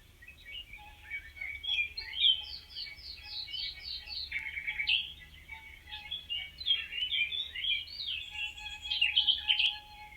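Songbirds singing, a busy mix of chirps and trills, with a quick run of repeated falling notes about two seconds in.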